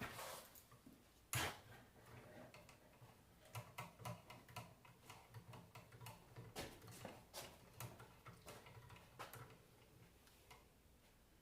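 Faint, irregular small clicks and ticks of a screwdriver and its bits working on the screws of an alternator's voltage regulator, with one sharper click about a second and a half in. The clicking dies away near the end.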